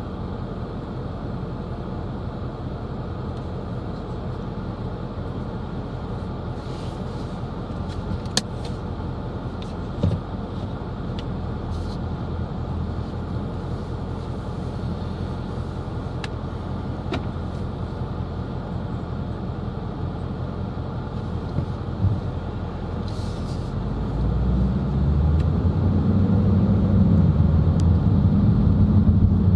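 Road and engine noise heard from inside a moving car: a steady low rumble with a few faint ticks, growing louder over the last several seconds.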